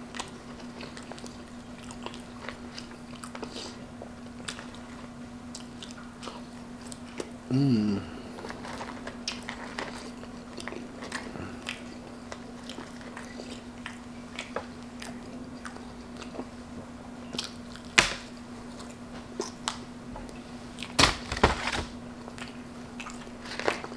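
A person chewing and biting on Wendy's Baconator fries, cheese-sauce-and-bacon fries eaten from a tray with a fork, with many small wet mouth clicks throughout. A short hummed voice sound comes about a third of the way in, and a few sharp clicks come near the end. A faint steady hum runs underneath.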